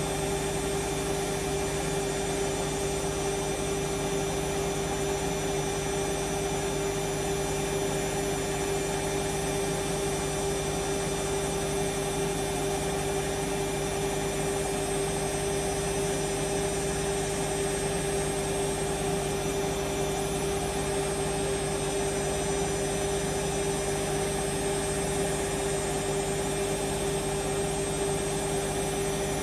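Hoover Vision Dynamic washing machine spinning at a steady speed: a constant whine over the rush of the turning drum.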